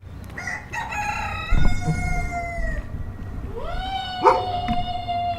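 A rooster crowing twice, each a long drawn-out crow, the second starting about three and a half seconds in. A sharp knock comes during the second crow, over a low rumble of barnyard background.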